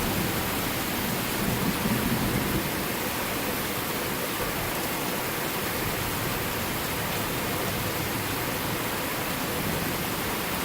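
Heavy thunderstorm rain falling steadily, an even hiss with a little low rumbling in the first couple of seconds.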